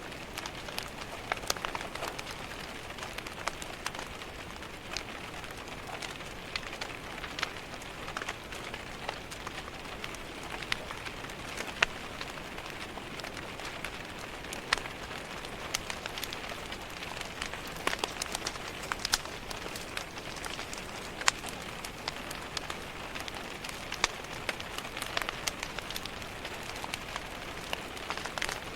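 Steady rain pattering against a window, mixed with a wood fire crackling, its sharp pops and snaps scattered irregularly throughout.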